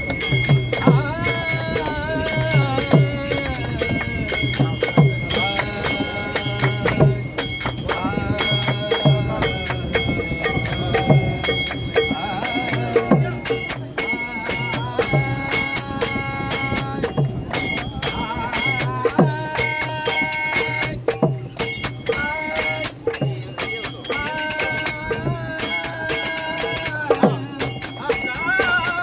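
A Marathi devotional bhajan sung by a bhajani mandal, a group singing together, with jingling percussion keeping a fast, steady beat.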